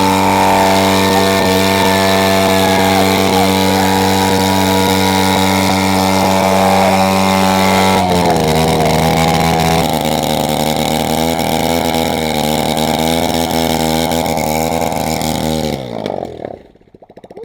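Coolster 110 pit bike engine held at high, steady revs in a stationary burnout, its rear tyre spinning against concrete, with the choke left on. About halfway through the pitch steps down a little, and near the end the engine dies away.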